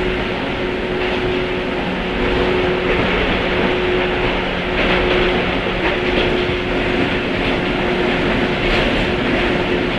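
Running sound inside a JR 103-series electric motor car (MoHa 102) with MT55 traction motors: the rumble of wheels on rail with a steady motor hum, getting slightly louder a couple of seconds in.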